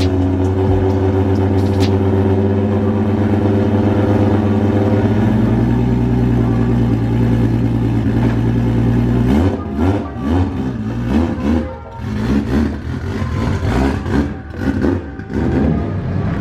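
2JZ-swapped Nissan 240SX S13 drift car's engine idling steadily, then from about nine and a half seconds in revving up and down in short, irregular blips as the car pulls away.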